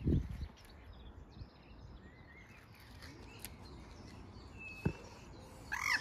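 Open-air meadow ambience with scattered small bird chirps and a louder bird call near the end. A low rumble on the microphone in the first half-second and a single sharp click about five seconds in.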